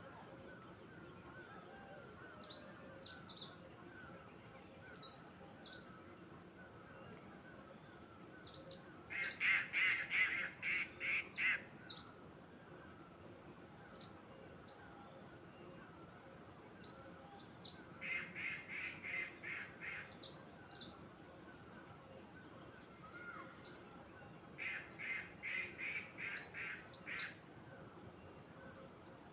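Birds singing: one bird repeats a short, high warbled phrase about every two seconds, while a second voice breaks in three times with a quick run of repeated, lower chattering notes lasting a couple of seconds each.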